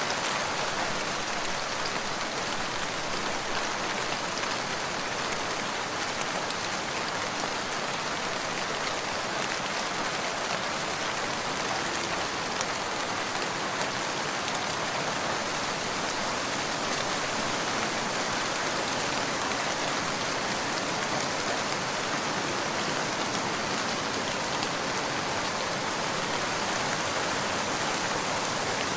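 Steady rain falling, an even patter of drops on a surface with no let-up.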